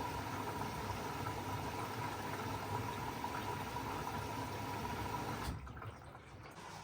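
Steady rushing of running water, with a faint steady tone, that cuts off suddenly about five and a half seconds in.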